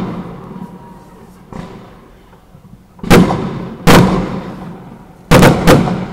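Aerial fireworks bursting: a fainter bang about a second and a half in, then four loud bangs in the second half, in pairs, each trailing off in a rolling echo.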